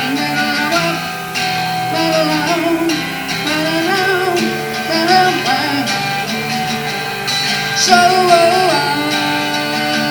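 Music: a strummed acoustic guitar with a melody line over it.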